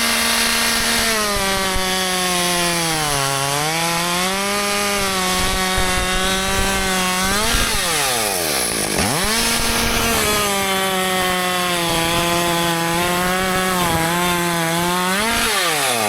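Husqvarna 564 XP two-stroke chainsaw cutting through wood under load in two long cuts, its engine pitch sagging and recovering as it bogs in the cut. About halfway through, and again at the end, the engine briefly revs up and drops back as the bar comes free of the wood.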